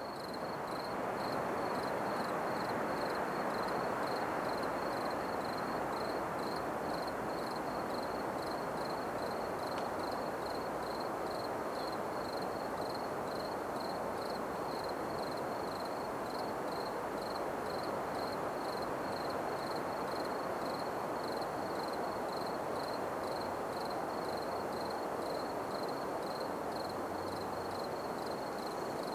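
Night ambience: an insect, likely a cricket, chirping at a high pitch in a steady, regular rhythm, over a constant low rushing noise.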